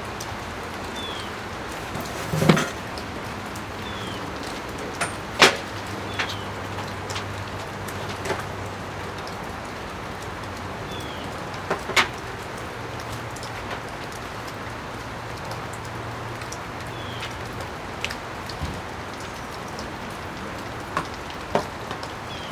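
A steady, even hiss with scattered sharp knocks and clicks, loudest about two and a half, five and a half and twelve seconds in, and a faint low hum in the middle stretch; no grinder is heard running.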